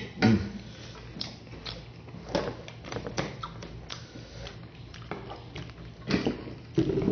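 Close-miked chewing of a mouthful of bopis (chopped pork lung and heart): irregular wet mouth clicks and smacks, with a short low hum at the start.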